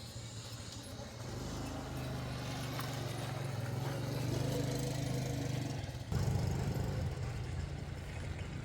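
A motor vehicle's engine running steadily, getting louder about a second in and changing abruptly about six seconds in.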